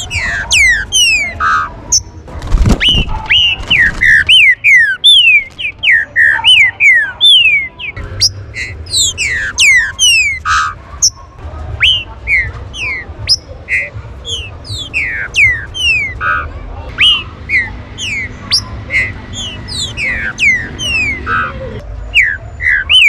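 Green-winged saltators (trinca-ferro) calling: a busy, unbroken run of short, sharp whistled notes that each slide steeply downward, some overlapping at different pitches. A brief low thump comes about three seconds in.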